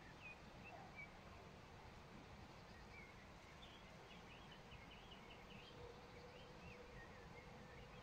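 Faint bird chirps and short twittering calls, with a quick run of notes from about three and a half seconds in, over a low steady background rumble. A faint steady hum comes in near the end.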